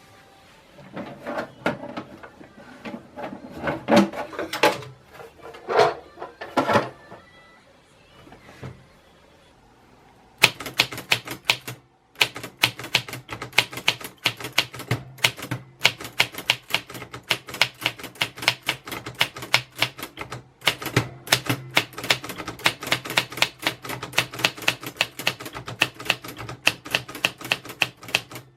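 Typewriter: a few irregular knocks and clacks in the first seconds, then from about ten seconds in a quick steady run of keystrokes, several a second, with brief pauses.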